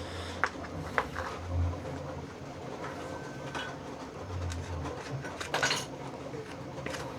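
Scissors cutting a piece of vinyl off the roll: a couple of sharp snips about half a second and a second in, and a longer rasping cut a little past halfway.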